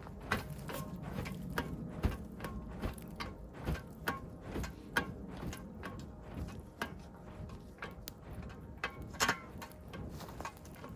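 Campfire crackling, with irregular sharp pops and cracks, as it is fanned with a broad shovel blade to revive the fire.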